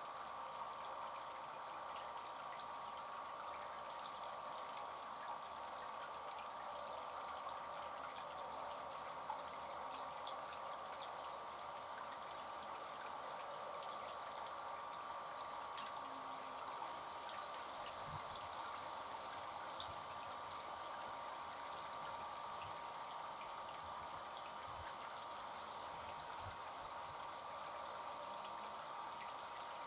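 Water trickling and splashing steadily in a small fountain bird bath, with scattered light drips and ticks.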